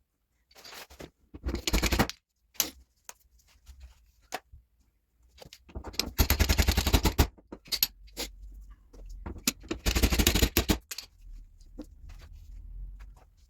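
Workshop tool rattling in three short bursts of rapid impacts, with single knocks between them.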